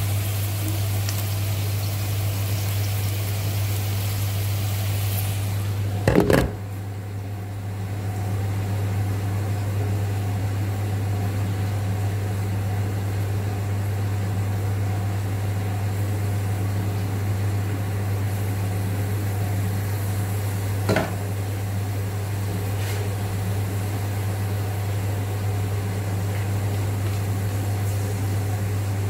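Tomato paste and spices sizzling in hot oil in a frying pan, over a steady low electrical hum. A loud knock comes about six seconds in, after which the sizzle is fainter, and a single click follows later.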